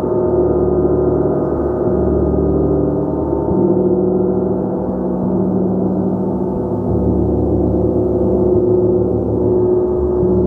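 Gong played continuously: a loud, steady wash of many overlapping sustained tones, mostly low and middle in pitch, with no single strike standing out.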